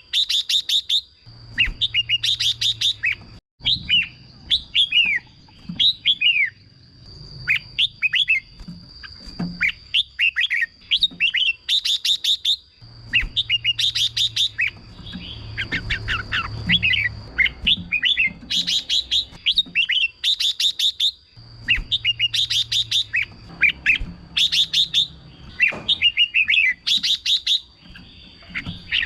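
Red-whiskered bulbul singing, short phrases of quick, bright whistled notes repeated every few seconds, with a steady high-pitched tone underneath.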